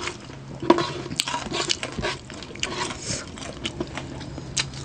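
Close-miked eating of crispy pata: irregular crunches and crackles of fried pork skin being bitten and chewed, with wet mouth and finger sounds.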